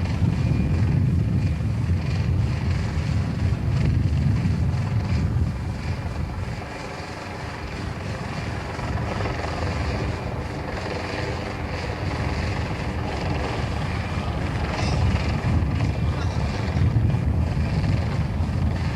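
Helicopter rotor and engine running steadily, with wind buffeting the microphone. The drone eases a little about a third of the way in and builds again toward the end.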